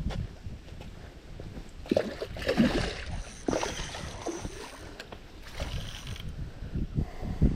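Irregular bursts of water splashing and sloshing, several in a row: a hooked European carp thrashing at the surface during the fight.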